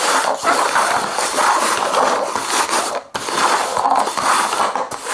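Paper cups being slid and shuffled over a tabletop, a continuous scraping and rustling with a short break about three seconds in.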